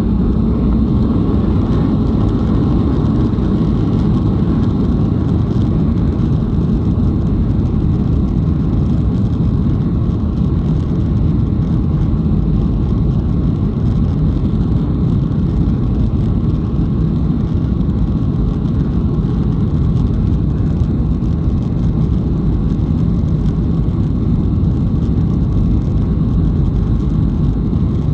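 Boeing 737 jet engines at takeoff thrust: a loud, steady, deep rumble with a faint steady tone above it.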